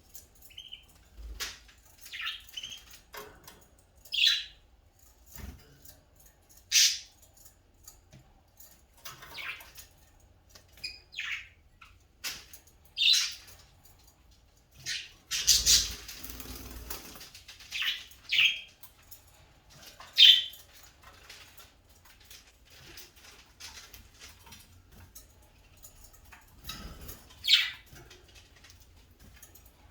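Small birds giving short chirps every second or two, with one louder, noisier burst lasting over a second about halfway through.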